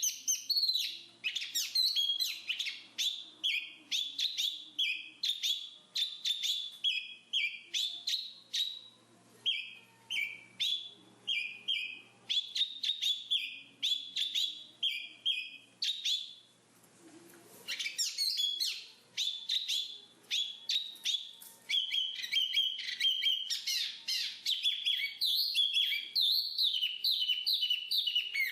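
Black-capped babbler singing: a fast, continuous run of high chirps and twittering notes, with a short break just past halfway.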